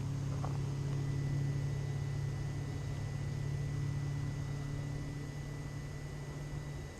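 A vehicle engine running nearby: a steady low hum that swells slightly and then eases off.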